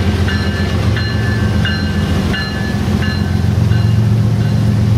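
Diesel freight locomotive rumbling, with a bell ringing in even strokes about every two-thirds of a second that fade out near the end.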